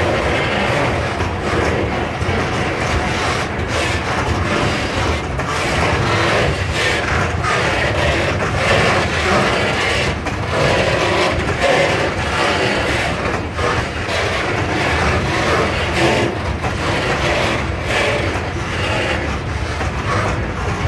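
Railway tank wagons of a freight train rolling slowly past on the track: a steady wheel-on-rail rumble and rattle, with frequent irregular clanks and knocks from the wheels and couplings.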